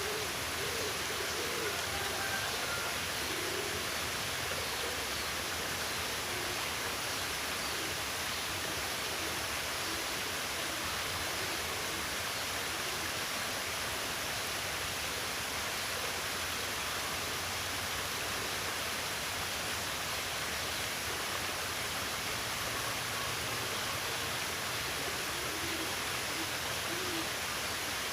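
Water rushing steadily, like a stream or small waterfall, with repeated low hooting bird calls over it.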